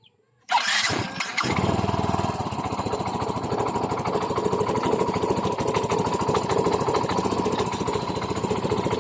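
Yamaha Mio i 125 scooter's single-cylinder engine starting, catching about a second and a half in and settling into a steady, even idle. It is running on a newly replaced block set and piston, with the earlier knocking and piston-slap rattle gone.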